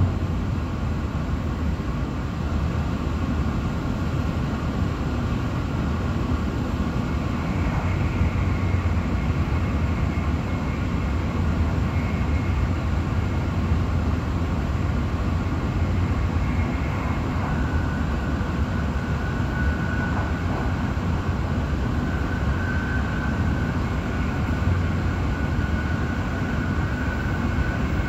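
Steady rumble of a Shinkansen bullet train at speed, heard from inside the passenger carriage, with a faint high whine running through it.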